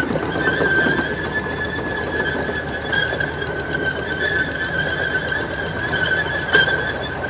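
Train wheels squealing on the rails in one steady high tone over the rumble of the moving train. A single knock comes about six and a half seconds in.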